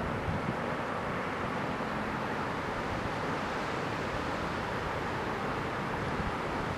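Steady rushing noise of heavy typhoon surf and wind on the microphone, even in level without distinct breaks.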